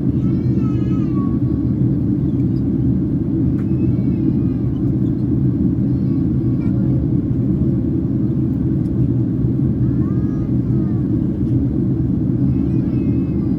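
Steady low cabin roar of a Boeing 767-300ER in flight, engine and airflow noise heard from a passenger seat. A faint high voice rises and falls a few times over it.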